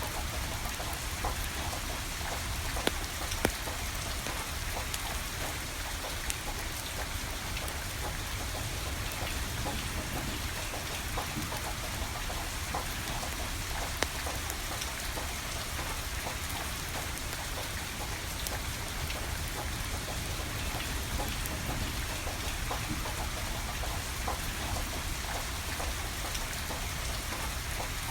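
Steady rain falling and pattering, with a wood fire crackling through it; a few sharper pops stand out about three seconds in and again near the middle.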